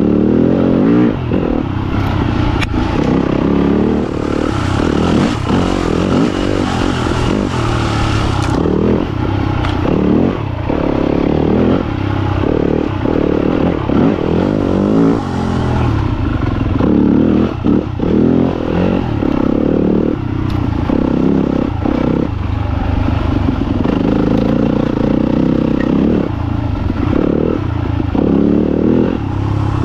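Yamaha YZ250FX dirt bike's four-stroke single-cylinder engine under riding load, its revs rising and falling every second or two as the throttle opens and closes, with brief drops off the throttle.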